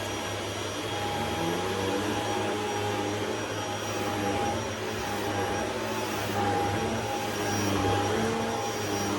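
Shark HZ500UK Anti Hair Wrap corded stick vacuum running steadily as it is pushed over carpet: a steady motor whine over a rush of air, its pitch wavering a little now and then.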